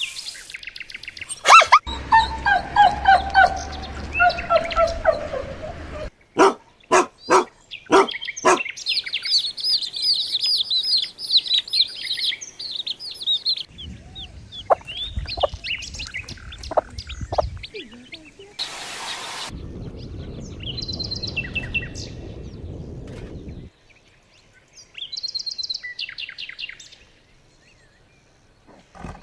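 A run of short animal sound clips cut together, several abrupt changes apart, with birds chirping and tweeting among them in high, quick trills.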